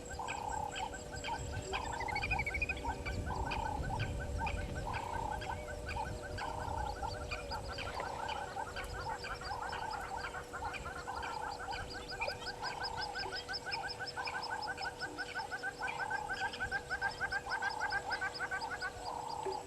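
Wild animal calls: one call repeated about every three-quarters of a second over a fast, even pulsing chorus, with a steady high tone underneath. The pulsing stops near the end.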